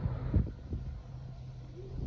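Wind buffeting the microphone in gusts over a low, steady mechanical hum, with one stronger gust-like thump near the start.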